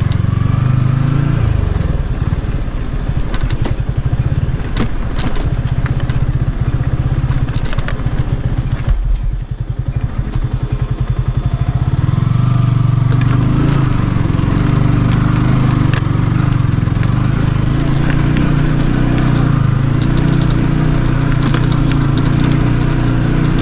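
Vehicle engine running steadily while travelling along a road. It eases off about nine seconds in, with separate firing pulses showing, then pulls strongly again a few seconds later.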